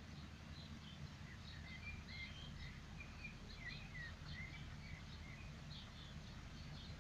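Several birds chirping and singing in the background, a busy run of short high calls and quick up-and-down notes, over a steady low rumble.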